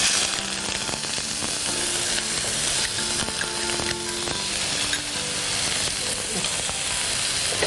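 Chopped spring onions sizzling in hot olive oil in a pan as they are sautéed: a steady, dense sizzle that starts suddenly.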